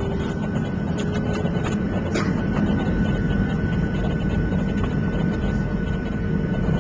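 Cabin noise inside a Boeing 737-700 taxiing after landing: a steady low rumble from the idling engines and the rolling airframe, with a few faint clicks in the first couple of seconds.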